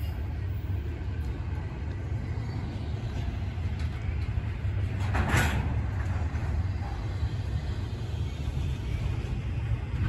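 CSX intermodal freight train rolling past, a steady low rumble of wheels on rail, with a brief hiss about halfway through.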